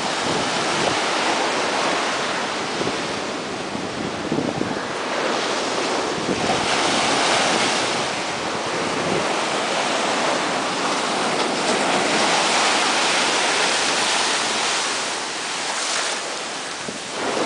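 Ocean surf washing onto the beach, a steady rush that swells twice as waves break, with wind buffeting the microphone.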